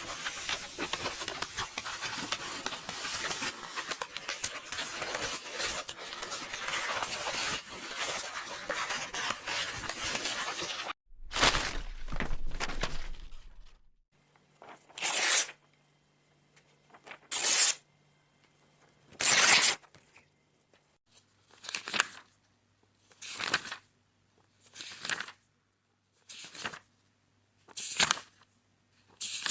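Paper tearing in a long continuous crackling rip for about eleven seconds, then a shorter rip. After that, book pages turning one at a time: three slower flips, then a steady page flip about every second and a half.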